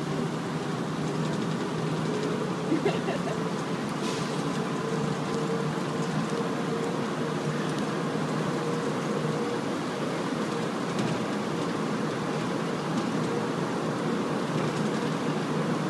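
Rubber-tired airport people-mover train running at speed through its tunnel, heard from inside the car: a steady running noise with a constant hum.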